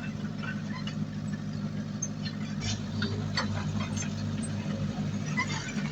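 Heavy diesel engine of earthmoving equipment running steadily, its low hum strengthening a little under three seconds in, with scattered short metallic clicks and clanks throughout.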